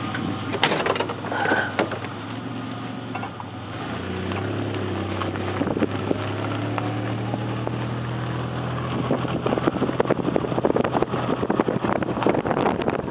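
Truck engine running steadily as the truck backs up, a low, even hum. From about nine seconds in, rough crackling noise, like wind on the microphone, joins it.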